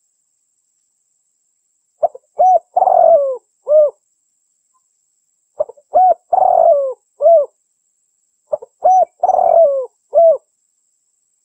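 Female spotted dove (derkuku) cooing: three phrases of several short coos, each phrase about a second and a half long, with a few seconds of silence between them. This is the call used as a lure to draw in males.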